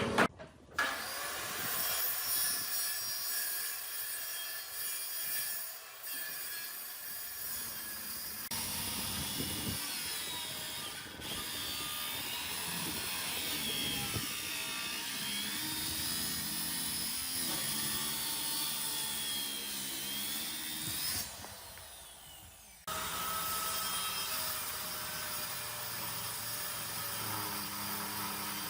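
Power tool working wood: a motor whine that wavers up and down in pitch as the load changes. The sound changes abruptly a few times, fades and drops away about 21 seconds in, then picks up again.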